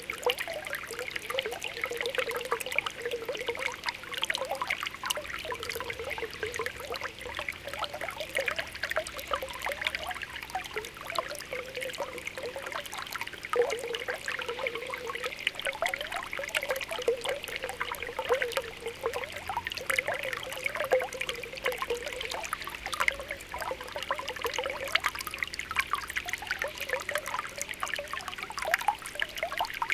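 Spring water welling up from the ground, a steady trickle with continuous small popping and bubbling as bubbles rise and burst at the surface.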